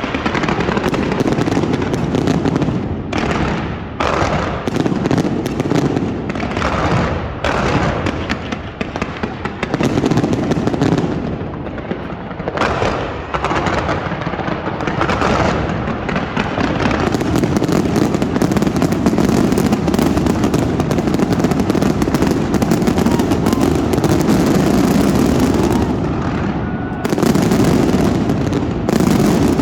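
Aerial fireworks going off in a rapid barrage: many separate bursts and crackles at first, becoming almost continuous in the second half.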